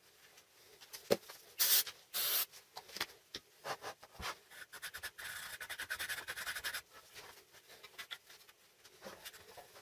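Wooden parts of a homemade vise being handled: short scrapes and rubs of wood on wood, with scattered light clicks and knocks, and a longer scrape a little past the middle.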